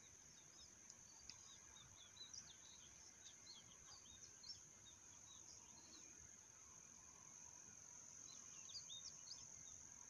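Quiet outdoor ambience: faint, scattered small bird chirps, busiest in the first half and again near the end, over a steady thin high tone.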